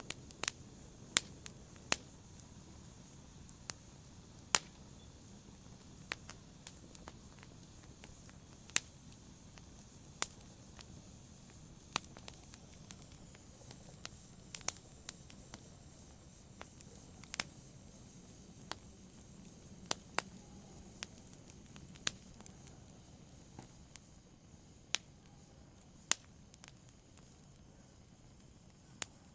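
Wood logs burning in a fireplace: sharp, irregular crackles and pops, roughly one a second, over a faint steady low rumble of the flames.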